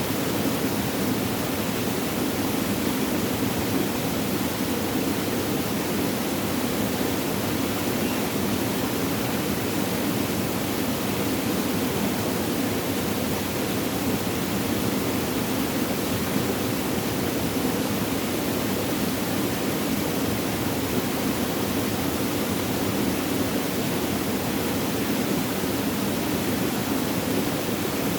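Flowing water running steadily, an even rushing hiss heaviest low in pitch, with no breaks or separate splashes.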